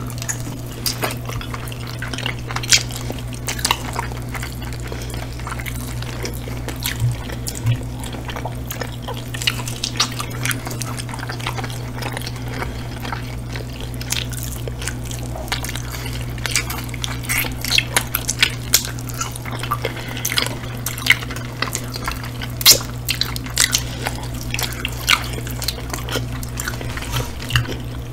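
Close-miked wet eating sounds of two people biting and chewing hot chicken wings: irregular sticky mouth clicks and smacks. A steady low hum runs underneath.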